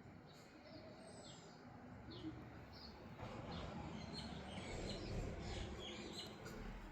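Faint bird chirps, short and scattered, over a low rumble that grows louder about halfway through.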